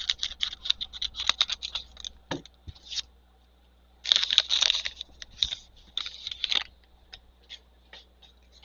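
A plastic trading-card pack wrapper being crinkled and torn open: a run of sharp crackles, a louder, denser stretch of tearing about four seconds in, then a few scattered clicks as the cards are handled.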